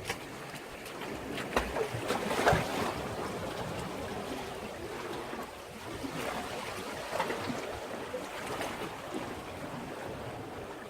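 Sea waves washing against a breakwater, surging and easing, loudest about two seconds in.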